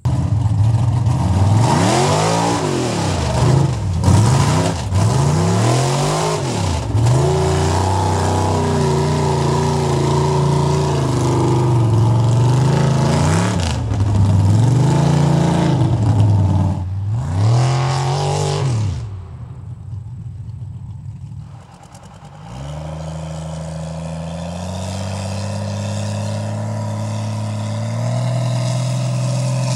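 Mega truck engine revved hard over and over, its pitch sweeping up and down, as in a run through a mud hole. After a brief lull of about three seconds, a steadier engine note picks up and climbs in a couple of steps.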